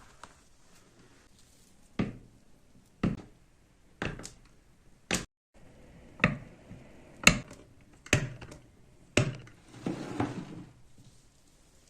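Restored antique kitchen cutting machine chopping: the blade comes down in sharp thunks about once a second, nine strokes in all.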